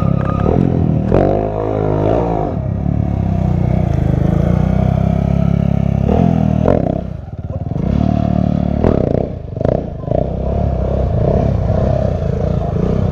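Stunt motorcycle's engine running hard and revving during a stunt routine; the revs and loudness dip briefly twice, about seven and nine and a half seconds in, then pick back up.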